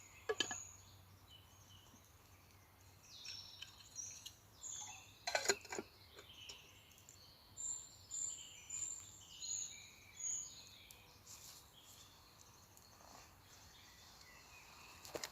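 Several birds singing and chirping in woodland, with a run of short high notes about twice a second in the middle. Two sharp knocks or snaps cut through, the louder one about five seconds in.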